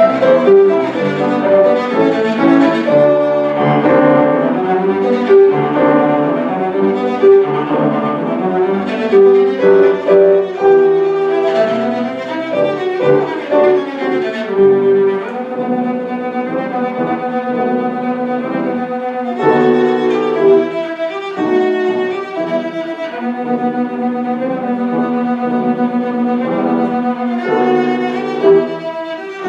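Live cello playing a melody with long held, bowed notes over piano accompaniment.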